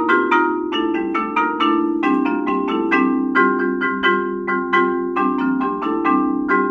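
Solo marimba played with four mallets: a steady stream of quick struck notes, about five a second, over sustained lower notes.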